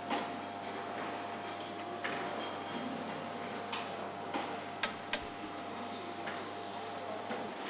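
Truck assembly plant ambience: irregular sharp clicks and knocks over a steady machine hum.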